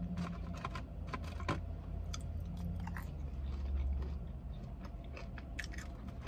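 Close-up chewing and eating of pancakes and french fries, with many small scattered clicks and taps over a steady low hum.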